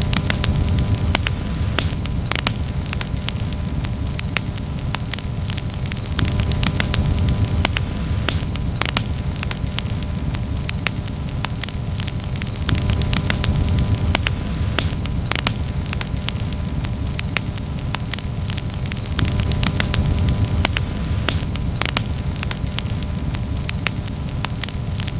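Wood campfire crackling, with many sharp pops scattered irregularly over a steady low rumble.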